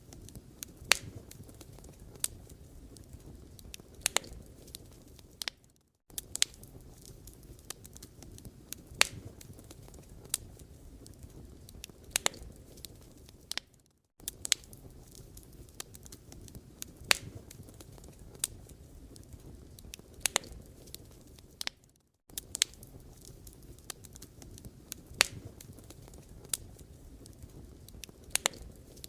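Wood fire burning, with sharp crackles and pops over a low, steady rush of flame. The sound cuts out briefly about every eight seconds.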